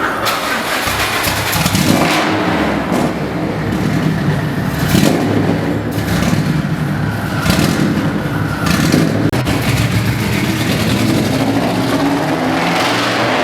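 Heavily modified, roughly 1300-horsepower Subaru engine being revved repeatedly through its exhaust, the pitch and level rising and falling, with several sharp cracks between revs.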